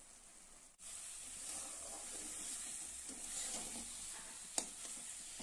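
Onion and masala paste sizzling in hot oil in a kadai while a spatula stirs and scrapes it. This is the masala being fried down before the mutton goes in. The sizzle is quieter for the first second, then louder, and there is one sharp click about four and a half seconds in.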